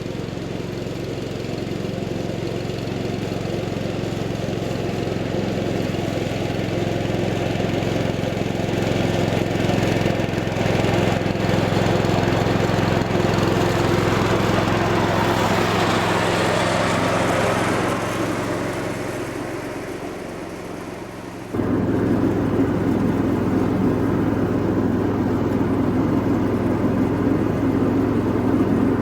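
1978 Cub Cadet 1000 garden tractor's engine running steadily while mowing. The sound swells and then fades over the first twenty seconds, then cuts abruptly back to a louder, closer running about two-thirds of the way through.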